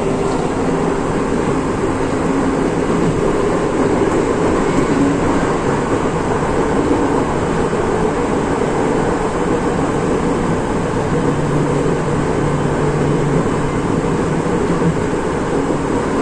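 Chichibu Railway electric train running along the line, heard from inside the cab. There is a steady rumble of wheels on rail with a faint motor hum.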